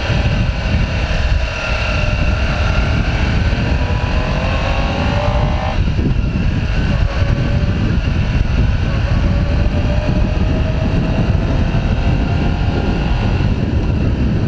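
Motorcycle engine accelerating under way, its pitch climbing, dropping sharply about six seconds in as it shifts up a gear, then climbing again. Heavy wind rumble on the helmet microphone under it all.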